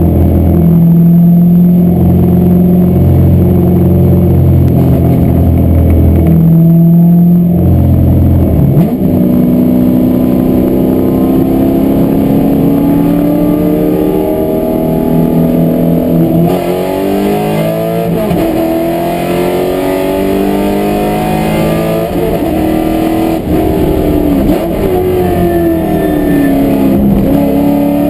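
Corvette race car's V8 engine heard from inside the cabin under hard acceleration on track. Its note holds steady at first, then climbs slowly through each gear with sharp drops at the shifts and lifts for corners.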